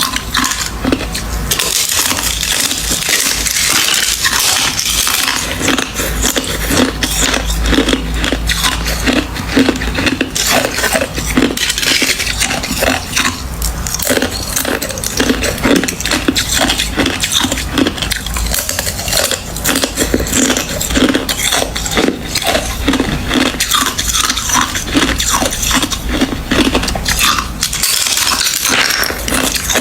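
Hard ice being bitten and chewed close to the microphone: a dense, irregular run of sharp cracks and crunches.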